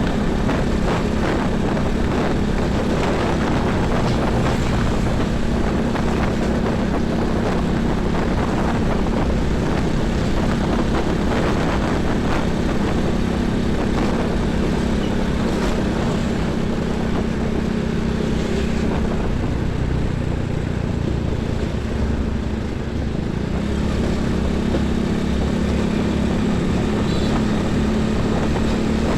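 Heavy highway traffic: a steady drone of large diesel truck and bus engines with tyre and road noise, and wind buffeting the microphone. The drone eases briefly about two-thirds of the way through.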